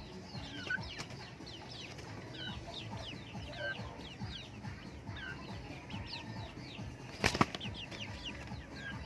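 Native chickens: a steady stream of short, high, falling peeps, typical of chicks calling, over low farmyard rumble. There is one sharp knock about seven seconds in.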